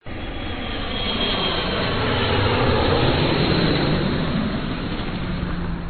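Loud, steady aircraft engine noise with a deep rumble, cut off suddenly at the end.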